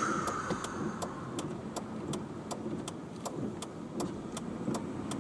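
Inside a car cabin: an even ticking, about four clicks a second, over the low rumble of the car running.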